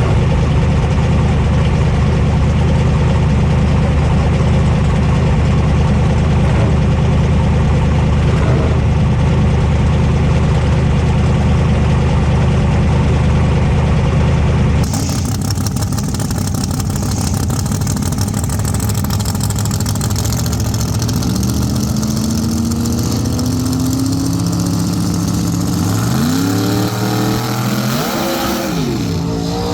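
Drag race car engine idling with a steady, heavy low note. About halfway through, the sound cuts abruptly to another engine, which is revved up and down several times, most sharply near the end.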